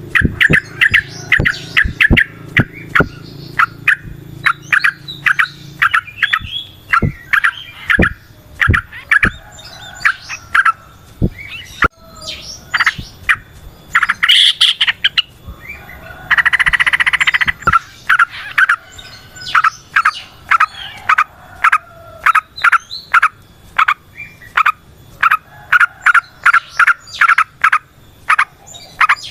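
Yellow-vented bulbul (trucukan) singing a long, fast run of short, bubbly chirping notes, with a buzzy rattling trill about halfway through.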